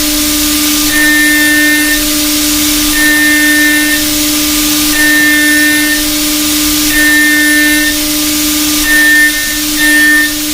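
CNC milling machine running a ceramic solid end mill in heat-resistant superalloy: a steady high hum, with a higher whine about a second long that comes every two seconds, then in shorter, quicker spells near the end.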